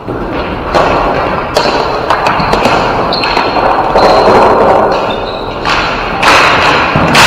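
Ball hockey play: sharp knocks and thuds of sticks and ball against the boards and floor over a steady noisy rink din, with a thin high tone lasting a couple of seconds in the middle.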